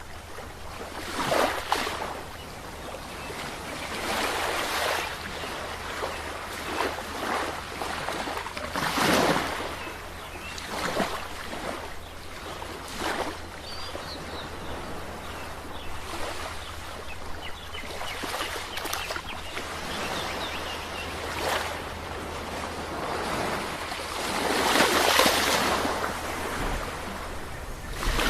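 Sea waves breaking and washing on the shore in repeated surges, the biggest about nine seconds in and a longer, louder one near the end.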